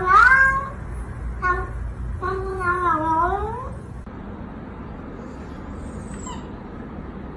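A cat meowing three times: a call right at the start, a short one about a second and a half in, then a long drawn-out meow that dips and rises in pitch, ending about four seconds in.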